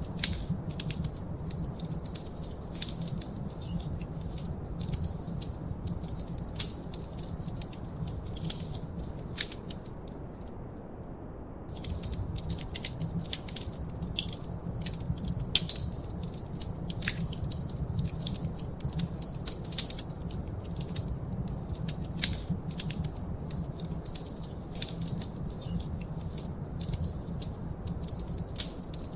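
Wood fire in a fireplace crackling, with frequent sharp pops and snaps over a steady low rumble. The crackling stops for about a second a third of the way in, then resumes.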